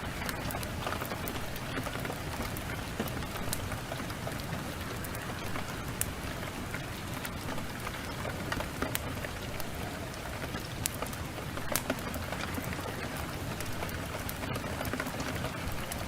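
Heavy rain pouring steadily, with sharp pops and crackles of a burning wood fire scattered through it.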